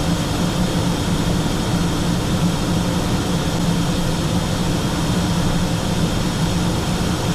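Steady cockpit noise of a Learjet 45XR in flight: the drone of its twin turbofan engines and rushing airflow, with a low steady hum underneath and no change in level.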